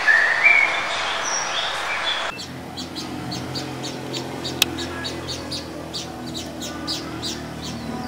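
For the first two seconds, an Andean cock-of-the-rock's rising call over dense forest background. Then a mousebird gives a run of short, high chirps, about three a second, over a low steady hum, with a single sharp click midway.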